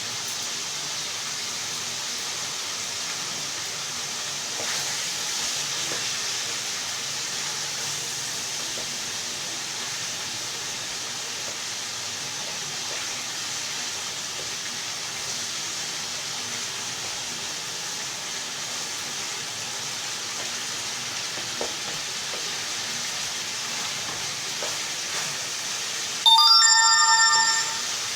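Chicken pieces sizzling steadily as they are lightly fried in hot refined oil. Near the end a sudden loud ring with several clear tones sounds for about a second and a half and fades out.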